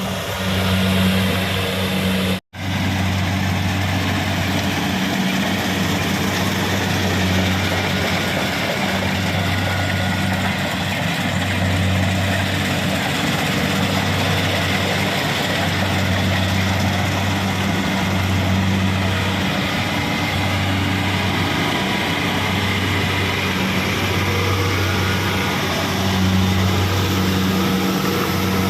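Kubota rice combine harvester running steadily, a low engine hum that swells and fades about once a second over a broad mechanical noise. The sound cuts out for an instant about two and a half seconds in.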